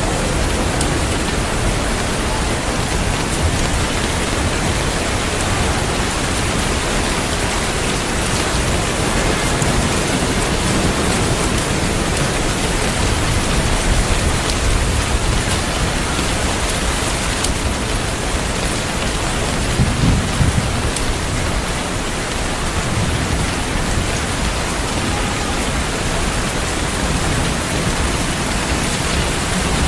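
Steady rain falling, with low rumbles of thunder, the strongest about two-thirds of the way in.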